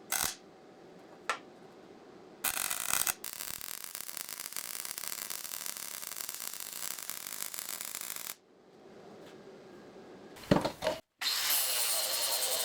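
MIG welder laying short tack welds, then a steady crackling weld bead of about five seconds on thick steel. A couple more quick tacks follow, and then a second run.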